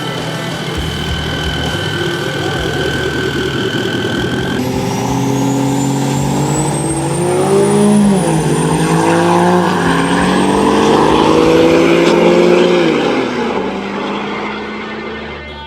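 A truck accelerating hard, its engine pitch climbing and dropping back twice as it shifts gears, with a high whine rising above it; the run begins about a third of the way in and fades out near the end.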